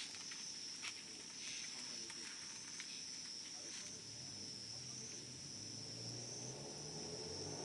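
Wood campfire crackling with a few faint pops, under a steady high-pitched insect trill that runs throughout.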